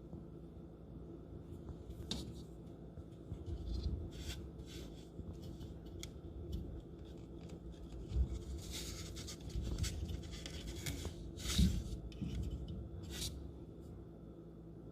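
Irregular scraping and rubbing with several sharp clicks, and a longer hissing scrape around the middle.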